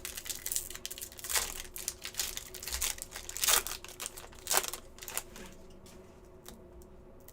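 Hockey trading cards being handled and flipped through by hand: a run of short rustles, slides and light clicks that thins out after about five and a half seconds.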